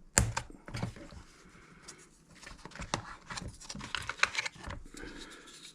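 Rummaging through a small parts container: irregular light clicks and rattles of small pieces being picked through and moved around.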